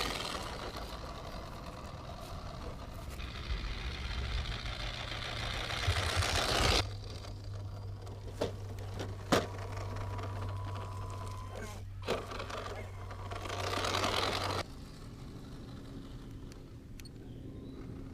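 Tamiya Hilux 4x4 RC pick-up truck running, its electric drive and three-speed gearbox whirring over rough ground in several stretches that start and stop abruptly, with a few sharp knocks in the middle.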